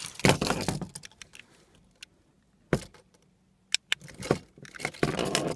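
Keys jangling, with a cluster of rattling clicks at the start, one sharp click near the middle, a few more clicks about four seconds in, and rustling near the end.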